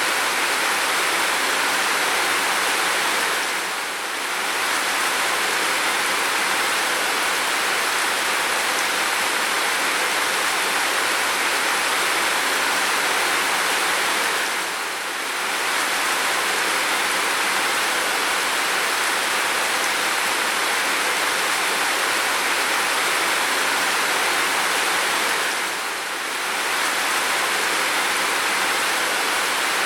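Heavy, steady rain, a dense even hiss that eases briefly about every eleven seconds.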